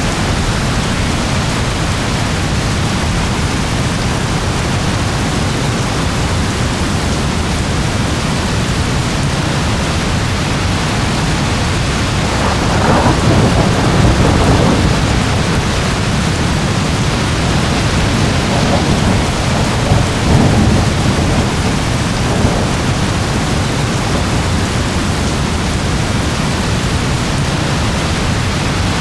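Steady rain with thunder: two low rolls of thunder swell up, one a little before halfway through and another a few seconds later.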